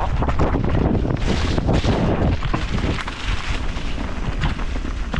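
Wind buffeting the microphone of a mountain bike's onboard camera on a descent, over a constant rattle and many small knocks as the bike rides over rough ground.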